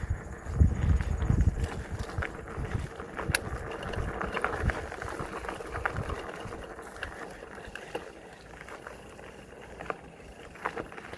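Polygon mountain bike ridden over a dry, dusty dirt trail: tyres crunching on the ground with scattered clicks and rattles from the bike, and one sharp click a few seconds in. Heavy low rumble in the first couple of seconds, easing off, and the riding noise grows quieter near the end.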